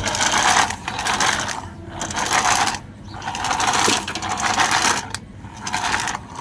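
Small electric motor and plastic gearing of a toy RC car running in short rattly bursts, about one a second, as if the throttle is being pulsed.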